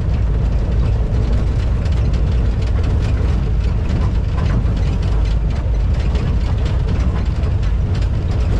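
Safari jeep driving: a steady, heavy low rumble of engine and road noise, with light rattles over it.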